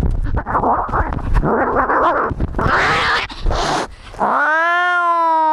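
Cat caterwauling: a few seconds of harsh, rough yowling, then about four seconds in a long drawn-out yowl that holds a steady pitch.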